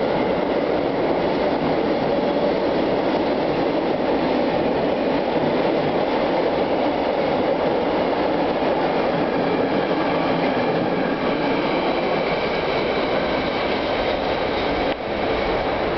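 Freight train of car-carrier wagons rolling past: a steady rumbling rush of steel wheels on rail, with a faint high whine running through it.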